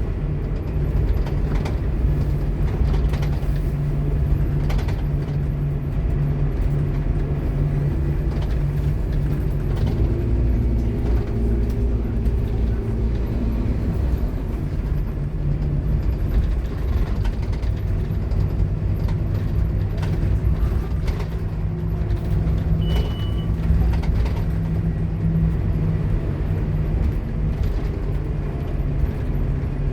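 Scania K230UB Omnilink bus running under way, engine and ZF Ecomat automatic gearbox, the gearbox loud. The engine note changes about ten seconds in and again a little after twenty seconds, as the gearbox shifts. A short high beep sounds a little after twenty seconds in.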